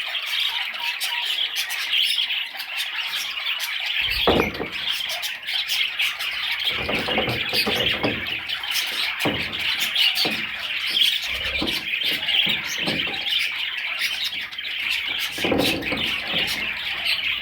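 Budgerigar warbling and chattering without a break: a busy stream of quick chirps and clicks, with a few short, lower and duller noises mixed in.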